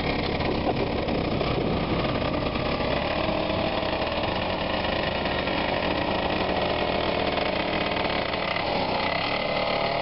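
Motor vehicle engine running steadily, with a mid-pitched hum that becomes clearer a few seconds in and the deep rumble thinning near the end.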